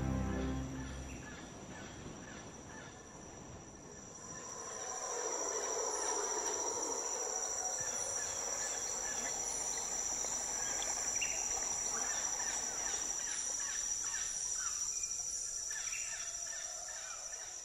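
Rainforest insect chorus: a continuous high, shrill drone of insects, with many overlapping short chirping calls joining in about four seconds in. The last of some background music fades out in the first second.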